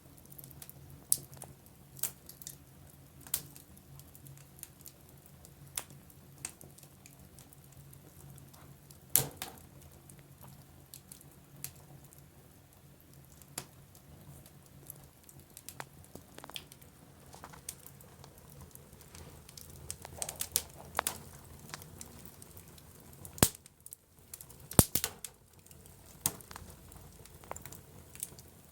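Wood fire crackling in a fireplace: irregular sharp pops and snaps over a faint steady low hum, with a few louder pops, the loudest about nine seconds in and a cluster near the end.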